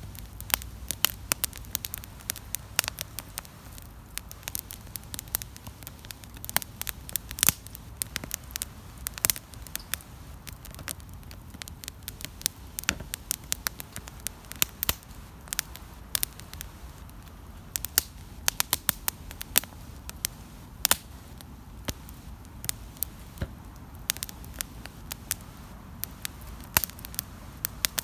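Wood campfire crackling, with irregular sharp pops and snaps several times a second over a steady low hiss of burning.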